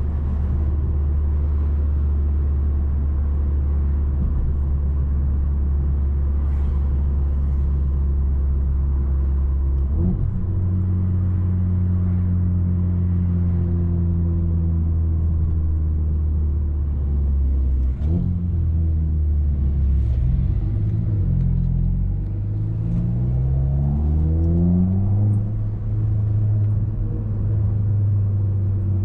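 Audi A3 2.0 TFSI turbocharged four-cylinder running through a 2.5-inch downpipe and catback exhaust, heard on board while driving: a steady low drone. The note steps abruptly about 10 and 18 seconds in, then rises in several quick pulls about three-quarters of the way through as the engine revs up.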